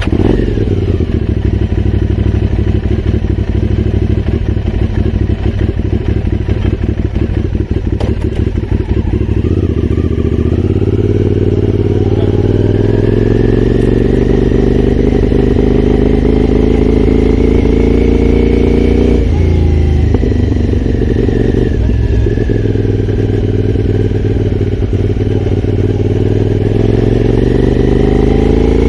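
Aprilia Shiver's 90-degree V-twin engine running steadily at first, then pulling away with its pitch rising through the revs. About two thirds in the pitch drops suddenly at a gear change, and it climbs again near the end.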